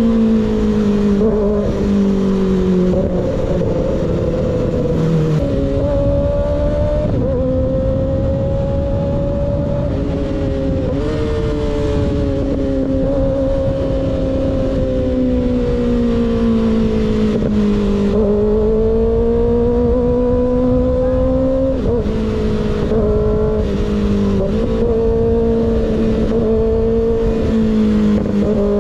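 Sport motorcycle engine breathing through an unbaffled slip-on exhaust, held at steady cruising revs. Its note rises and falls with the throttle and dips sharply a few times at shifts or throttle lifts, over a constant rush of wind.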